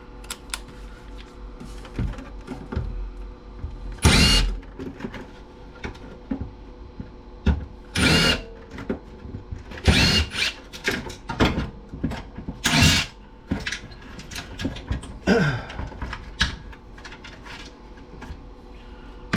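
Power drill run in about six short bursts, some with a slight rise and fall in pitch, with small clicks and knocks in between.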